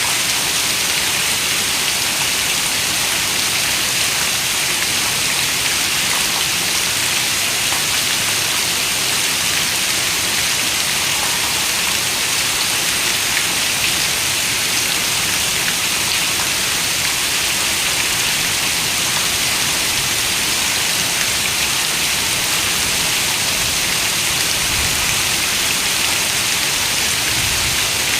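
Heavy rain falling steadily on a window: an even, unbroken hiss with no breaks or changes in strength.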